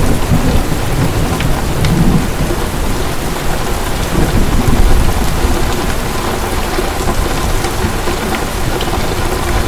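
Heavy rain pouring steadily, with low thunder rumbling underneath that swells a couple of times.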